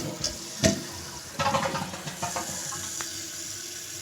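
Kohler Kelston toilet flushing: water rushing and splashing with a couple of knocks in the first two seconds, settling into a steady hiss of water as the tank refills. The owner says something is wrong with the toilet.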